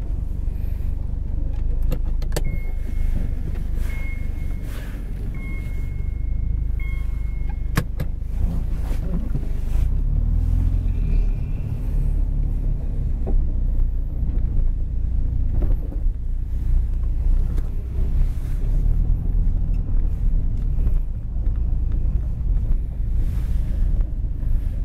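Mazda RX-7 FD3S's twin-turbo 13B rotary engine and running gear heard from inside the cabin as the car rolls slowly, a steady low rumble. For about five seconds early on, a high electronic warning beep sounds on and off, with a click where it starts and another where it stops.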